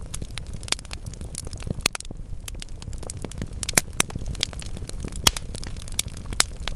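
Wood logs burning in a fireplace, crackling with irregular sharp pops several times a second over a low steady rumble of the flames; the loudest pops come a few seconds in.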